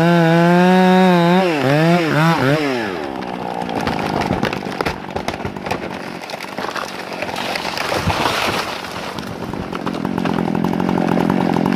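Chainsaw running, its pitch swinging up and down as it revs over the first few seconds, then a rougher, noisier stretch with many crackles, and a steady engine note again near the end.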